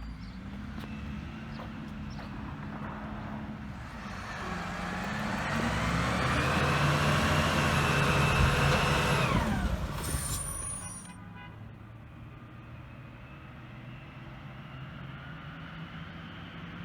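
Garbage truck's engine revving up with a high squealing whine that rises in pitch, holds for several seconds, then drops away about ten seconds in. A short hiss of air follows, and the truck settles back to idle.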